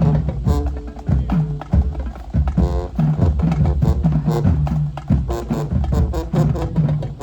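Marching band drumline playing a cadence: rapid drum strokes over low, pitched bass drum hits.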